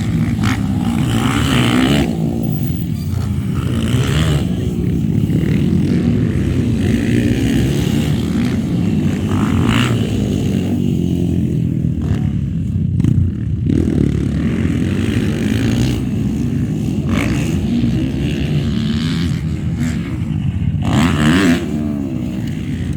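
Motocross motorcycle engines running loudly and revving up and down.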